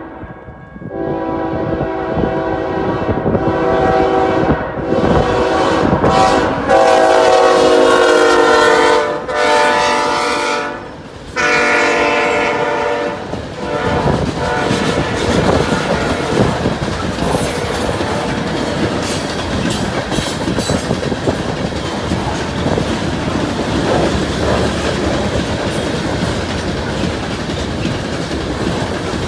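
Horn of a BNSF ES44AC diesel locomotive leading a coal train, sounded in several long blasts over about the first thirteen seconds. After that comes the steady rumble of the coal cars rolling past, with the clickety-clack of wheels over the rail joints.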